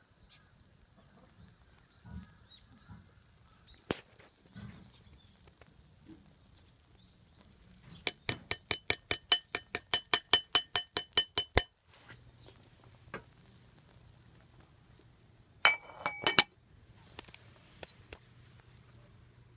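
Metal cookware clinking: a quick, even run of about fifteen ringing strikes, metal tapped on metal, then a few more clinks a few seconds later.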